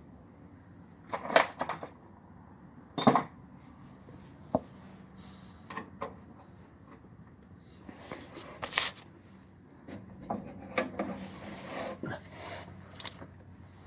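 Hand tools and metal parts clanking and clattering during work on a car's shock absorber mounting: a few sharp metallic knocks, the loudest about a second and three seconds in, then a run of lighter clatter near the end.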